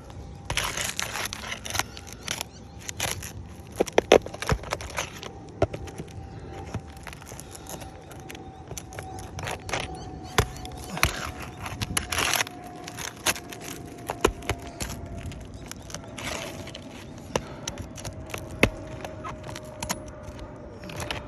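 Staples being pried out from under roofing shingles: irregular sharp clicks, cracks and short scrapes as the tool works under the fasteners and the shingle tabs are lifted.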